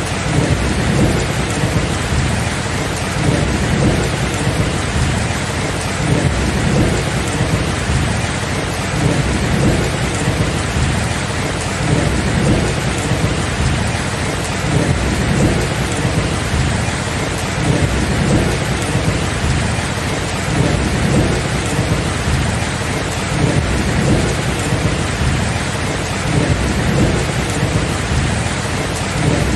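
Steady rain falling, with a continuous low rumble of rolling thunder that swells and eases without any sharp clap.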